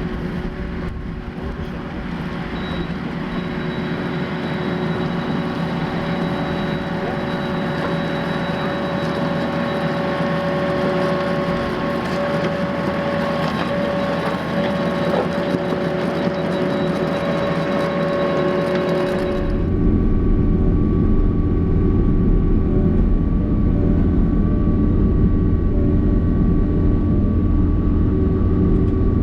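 Gehl skid steer loader's diesel engine running steadily under load with a steady whine over it. About two-thirds of the way through the sound turns suddenly deeper and duller.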